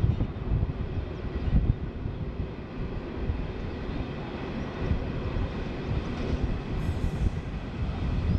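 Two diesel locomotives hauling a coal train approach around a curve, giving a steady, uneven low rumble.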